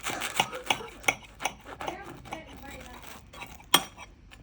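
Knife sawing back and forth through a sandwich on a plate, about three strokes a second, fading out around halfway, then a single sharp clink near the end.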